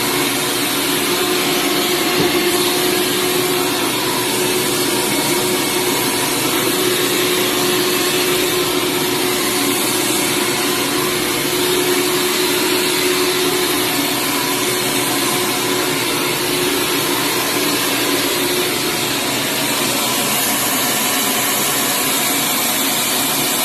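Hoover Steamvac carpet cleaner with a 7-amp motor, running steadily: a loud, even rush of air with a steady hum underneath.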